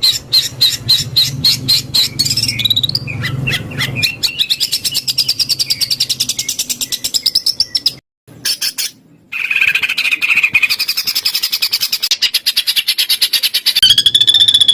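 Songbird singing fast, tightly packed trills of repeated high notes, the rapid-fire 'tembakan' phrases used to train competition songbirds, with two brief breaks in the song a little past the middle.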